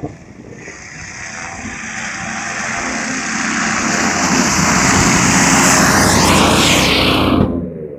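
Airboat's engine and air propeller running, growing steadily louder as it comes close, with a bend in pitch as it passes, then cutting off suddenly near the end.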